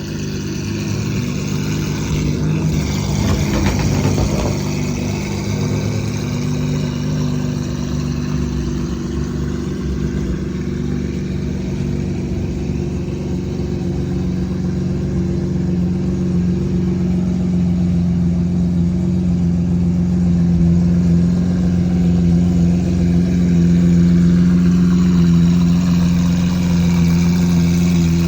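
Car engine running at a steady idle, with a short stretch of rougher noise about three to four seconds in.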